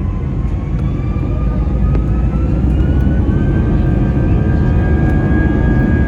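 Airbus A320neo's jet engines spooling up to takeoff thrust, heard from inside the cabin: a deep rumble growing louder under a whine that rises in pitch for the first three seconds or so, then holds steady.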